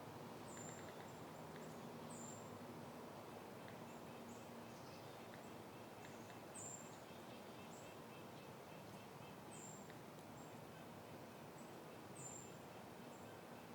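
Faint outdoor ambience: a soft hiss of light wind, with a small bird giving short, very high chirps that drop in pitch, repeated every second or few.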